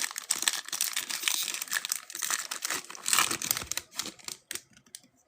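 Foil trading card pack wrappers being torn open and crinkled by hand, a dense crackling for about four seconds that thins to a few small crinkles near the end.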